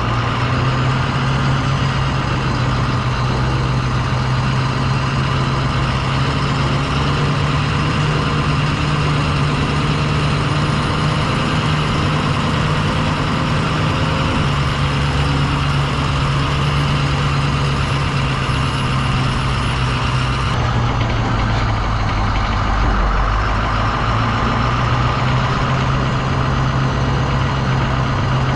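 International VT365 V8 turbo-diesel of a 2007 International 4200 dump truck running steadily, with a brief dip in engine speed about two-thirds of the way through.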